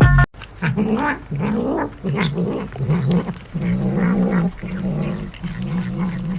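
A domestic cat making a run of low, wavering yowls, about two a second.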